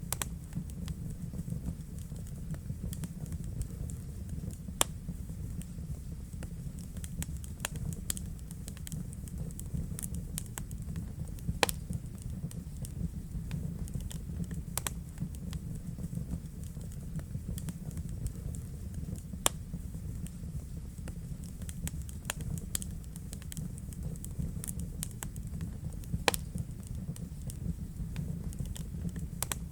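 Wood fire burning in a fireplace: a steady low rumble of flame with irregular crackles and sharp pops, a few louder snaps scattered through.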